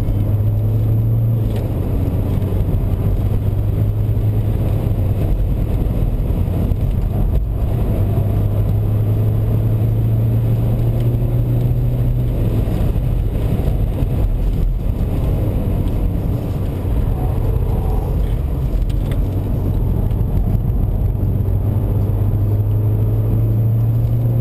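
A BMW 123d's twin-turbo four-cylinder diesel engine heard from inside the cabin while driving at speed: a steady low drone over tyre and road noise. The pitch shifts a little a few times.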